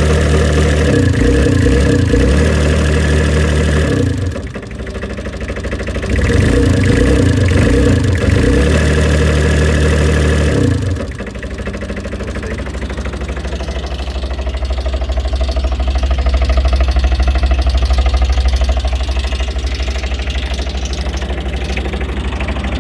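Dumper engine running at higher revs for about four seconds, easing off briefly, running up again, then dropping back to a steady idle about eleven seconds in.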